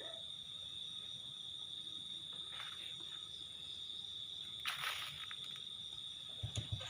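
Night insects, crickets, trilling steadily on one high note, with a couple of brief rustles. Near the end a low, pulsing engine sound comes in.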